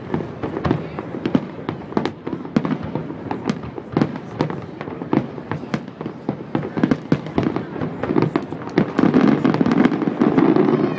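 Aerial fireworks shells bursting in quick succession, a dense run of bangs and crackles several times a second, growing louder toward the end.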